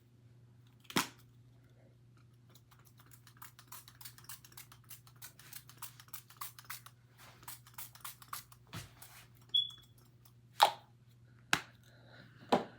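Small handling sounds: a run of rapid light clicks, a few sharp taps and one brief high squeak, over a steady low hum.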